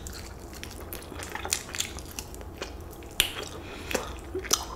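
Close-miked eating of a crispy fried chicken wing: biting and chewing give irregular crunching clicks, a few louder than the rest.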